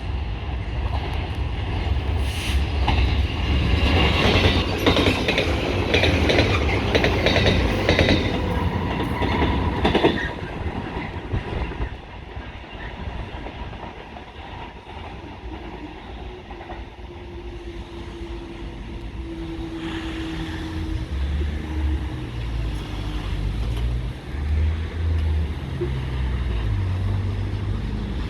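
A train passing close by, its wheels clattering rapidly over rail joints for several seconds before the noise drops away. A low, pulsing engine rumble follows in the second half.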